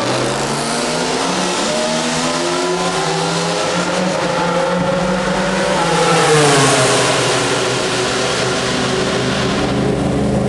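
Racing motorcycle engine running, its pitch climbing slowly to a louder peak about six seconds in, then dropping back and holding steady.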